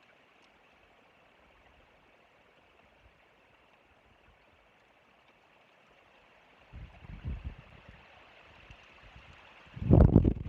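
Wind gusts buffeting an outdoor microphone: a faint steady hiss at first, then rumbling surges from about seven seconds in, growing strong near the end.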